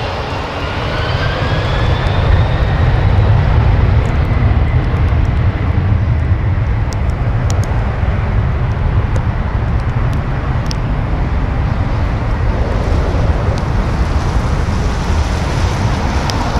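Plane's engines running at takeoff power: a loud steady roar with a deep rumble, and a high whine rising in pitch over the first few seconds. Scattered faint ticks sound through the middle.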